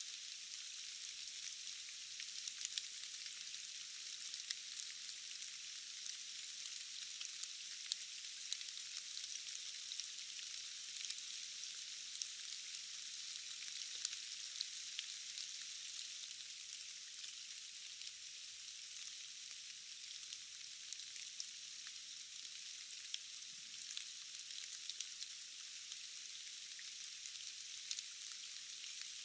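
Steady rain: a dense, even hiss with many small drop ticks scattered through it.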